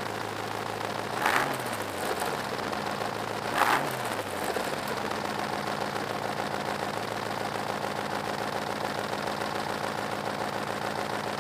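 Rover V8 engine idling through a true dual exhaust with Cherry Bomb mufflers. It is blipped twice, briefly, in the first four seconds, then settles back to a steady idle.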